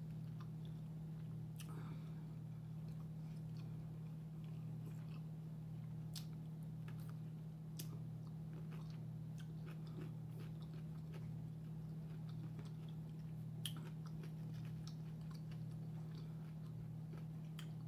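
A person biting and chewing a pickle spear close to the microphone, with scattered soft crunches and wet mouth clicks over a steady low hum.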